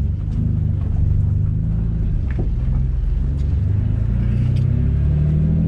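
The single-turbo Nissan G35's 3.5-litre V6 running at low revs, a steady low engine note whose pitch climbs slightly near the end as the revs rise.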